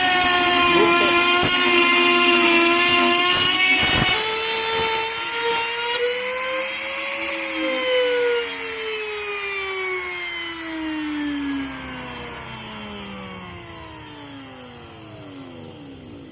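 Electric wood router (trimmer) motor whining at full speed while cutting a circle in a speaker box panel, with a knock about four seconds in; after a brief rise in pitch it is switched off and spins down in a long falling whine, fading toward the end.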